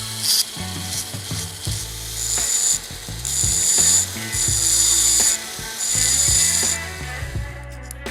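A small power tool works the diecast metal in four short bursts, each a high-pitched whine with a grinding hiss, over background music with a steady bass line.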